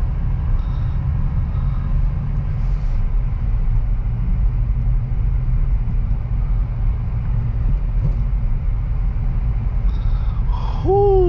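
2023 Acura Integra's 1.5-litre turbocharged four-cylinder engine and road noise heard from inside the cabin, a steady low rumble as the car drives at low speed in second gear.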